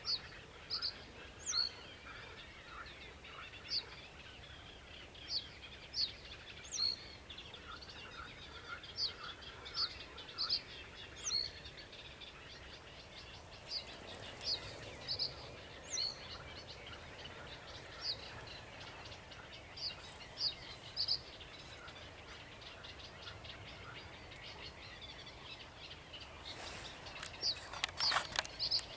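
Birdsong, from a sedge warbler and another bird: short, sharp high notes repeating through the whole stretch, a lower chattering in the first half, and a dense burst of notes near the end, over a steady background hiss.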